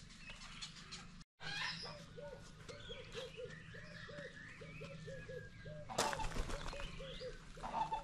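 Several birds calling together: runs of short, low repeated notes, several a second, under higher chirps and whistles. About six seconds in there is a sudden loud noise, like a flutter of wings.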